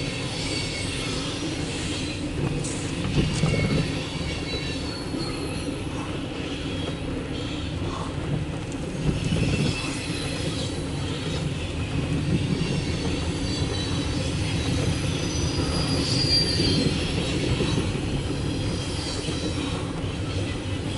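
Loaded CSX coal train's cars rolling past, a steady rumble of steel wheels on rail with high-pitched wheel squeal, heard from inside a car.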